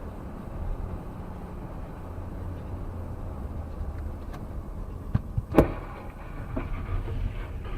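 Car driving with a steady low road rumble. About five seconds in there is a sharp knock, then a louder bang just after it, followed by a few smaller clatters: a collision.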